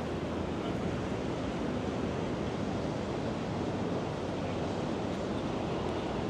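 Steady outdoor wind and surf noise, an even rush with no distinct events.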